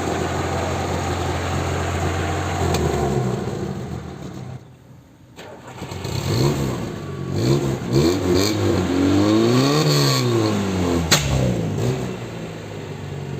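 VAZ classic (Lada) engine with a tuned exhaust, running steadily, then revved up and down several times. Sharp cracks from the exhaust, the loudest about eleven seconds in, are the pops of the exhaust-flame setup.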